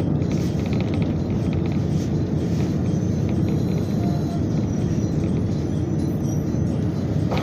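Steady low rumble inside a diesel railcar as it rolls slowly into a station, engine and wheels running under the floor.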